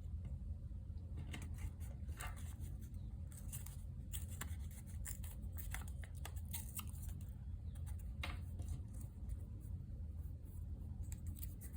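Paper and craft supplies being handled on a desk: light rustling, scratching and small clicks scattered throughout, over a steady low hum.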